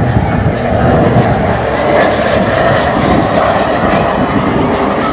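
Fixed-wing airplane engines running loud and steady close by, a continuous engine noise with no break.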